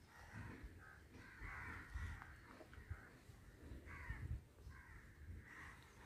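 Faint bird calls: a string of short calls repeated every second or so.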